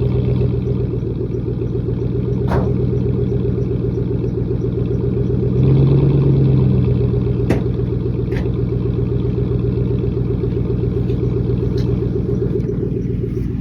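Exhaust of a 2007 Ford F-150's 4.6-litre V8 with the muffler deleted, running at idle after a cold start through a 3-inch tip, with a steady low rumble. About six seconds in it briefly gets louder, and a few light clicks sound over it.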